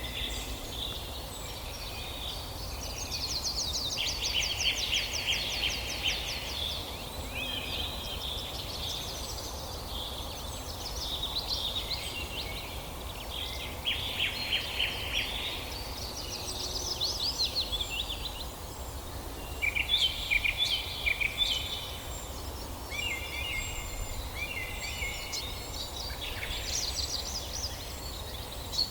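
Several songbirds singing at once in woodland: overlapping high phrases of quick chirps and rapid trills, one after another, with no pause. A steady low rumble runs underneath.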